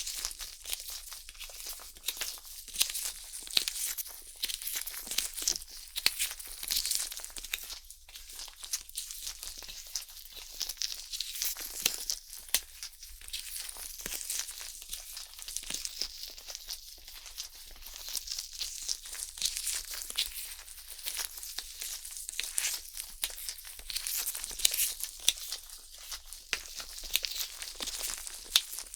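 Stainless steel ear pick scraping and scratching against the silicone outer ear of a 3Dio binaural microphone, a dense stream of close, crackly rasps and small clicks.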